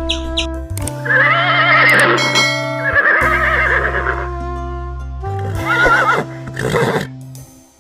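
A horse neighing: two long wavering whinnies about one and three seconds in, then shorter ones near the end, over background music with steady held tones.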